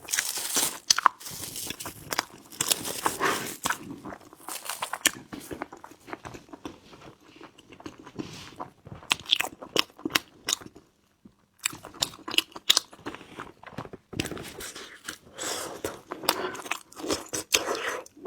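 Close-miked chewing of sticky glutinous-rice qingtuan with black sesame and red bean filling: wet smacking and many sharp clicks of the dough pulling at the teeth and lips, pausing briefly twice.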